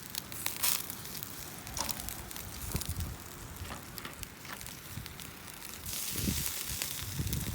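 Wood campfire crackling, with scattered sharp pops over a low hiss that swells a little near the end.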